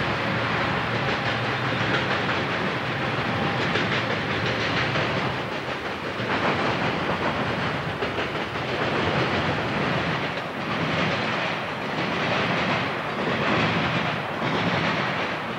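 Freight train cars rolling past: a steady rumble and rattle of steel wheels on rail. In the second half comes a regular clack of the wheel trucks crossing rail joints, about once a second.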